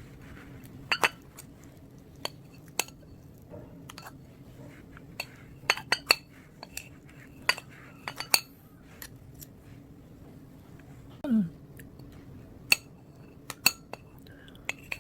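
Eating utensils clinking and tapping against dishes in irregular, scattered strikes. About eleven seconds in there is one short sound that falls in pitch.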